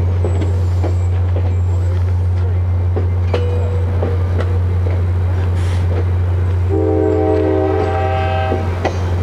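ACE commuter train's bilevel coaches rolling past over a steady low rumble, with the sharp clicks of wheels on rail joints. About seven seconds in, the locomotive's multi-chime air horn sounds a chord of several notes for nearly two seconds.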